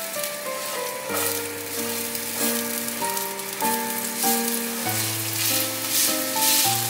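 Minced ginger sizzling in hot oil as it is stir-fried in a pan, with background music.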